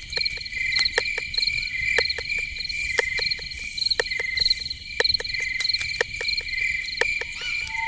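Night-time cricket chorus: crickets chirping in steady, rapidly pulsed trills, with scattered sharp clicks throughout. A short whistled call starts near the end.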